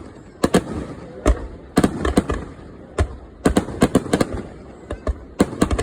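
Aerial fireworks shells bursting: many sharp booms and cracks in quick, irregular clusters.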